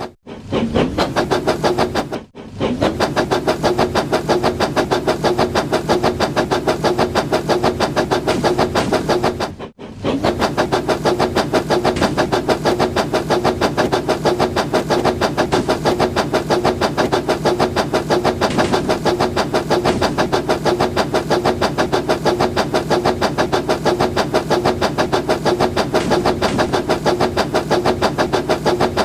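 Motorized toy train running with a steady, rapid mechanical clatter of about five pulses a second. The sound cuts out briefly about two seconds in and again about ten seconds in.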